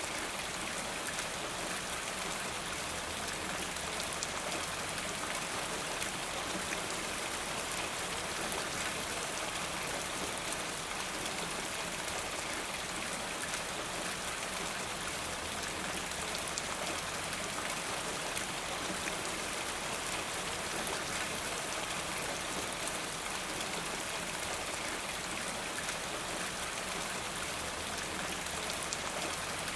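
Steady rain falling, an even hiss with many fine drops pattering throughout.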